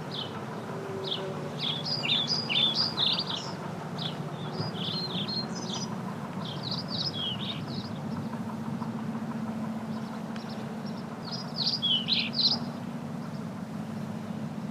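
Small birds chirping in quick clusters, with busier bursts about two seconds in, around five to seven seconds, and near twelve seconds, over a steady low hum.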